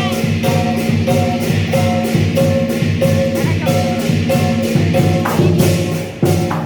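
Lion dance percussion: a drum, clashing cymbals and a ringing gong beating a steady, loud rhythm of about three strokes a second.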